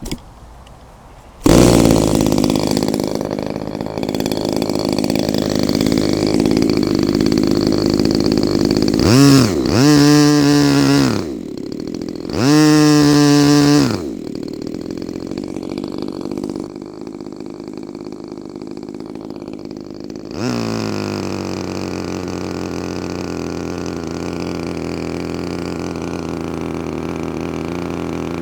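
Small petrol RC model-airplane engine, being broken in, starts up about a second and a half in and runs. It is revved up and back down twice near the middle, then drops to a lower steady run and picks up again to steady running in the last third.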